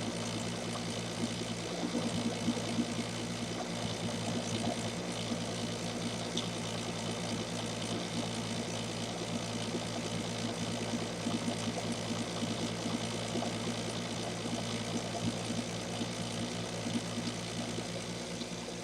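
Small metal lathe running steadily under leadscrew power feed: a constant motor hum with a busy whir and tick from the gear train.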